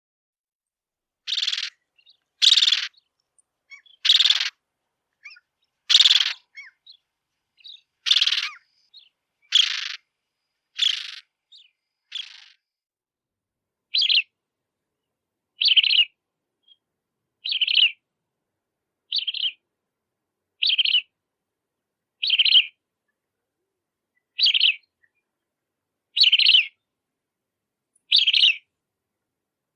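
Bridled tern giving a series of harsh calls, one about every second and a half; from about halfway on the calls are shorter.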